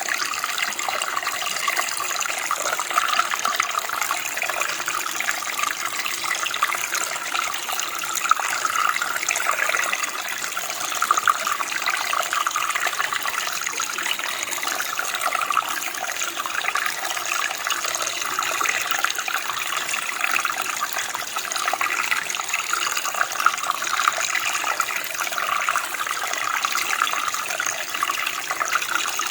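Running water of a small stream or creek, flowing and babbling steadily.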